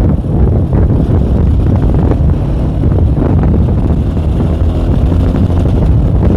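Tomos ATX motorcycle's small two-stroke engine running steadily under load while riding, with wind noise on the microphone.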